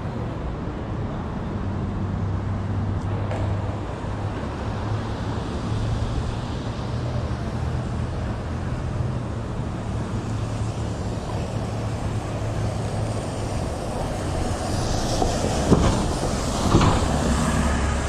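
City street traffic noise with a large vehicle running past, its low hum steady. A few sharp clacks and a rise in hiss come near the end.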